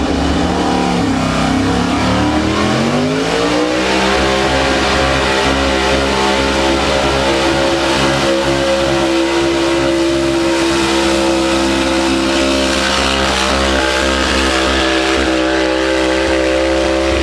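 Pulling truck's engine revving up over the first few seconds, then held at high, steady revs at full throttle while dragging the pulling sled.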